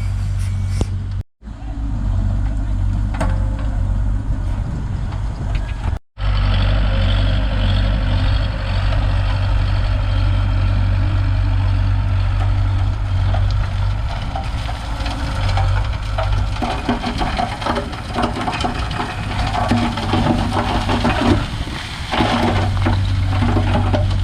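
Heavy construction machine's diesel engine running steadily, with a busy clatter of knocks in the second half. The sound cuts out briefly twice near the start.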